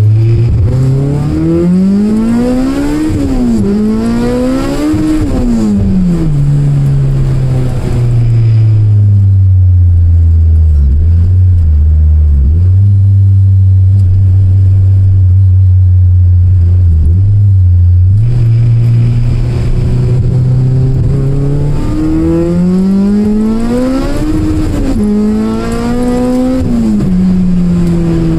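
K24-swapped 1993 Honda Civic's four-cylinder engine, loud throughout. Early on the engine climbs in pitch twice, with a short dip between, then drops back. It holds a steady lower drone for about ten seconds, then climbs again with a brief break before dropping back near the end.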